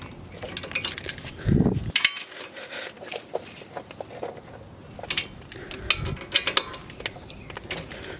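Irregular metallic clicks and clinks of hand tools against the brake caliper and its hardware, with a dull thump about one and a half seconds in and another about six seconds in.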